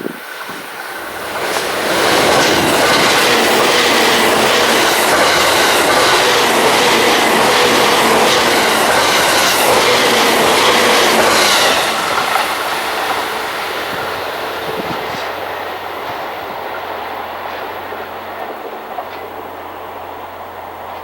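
A 12-car JR East E353 series limited express train passing close by, its wheels clicking steadily over the rail joints. It is loudest for about ten seconds, then fades gradually as the train moves away.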